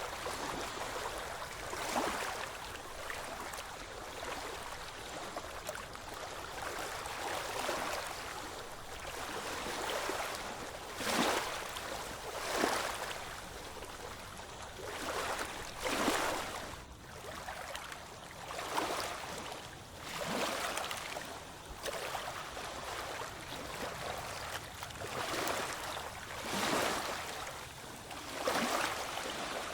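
Ocean waves washing in: a steady rush of water broken by short splashes that come irregularly, every one to three seconds.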